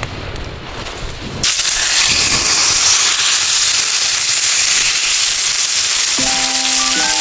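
A low rumble with a few thumps, then about a second and a half in a loud, steady sizzle starts abruptly: beef steak frying in a hot iron frying pan. Near the end, a few soft music notes come in over it.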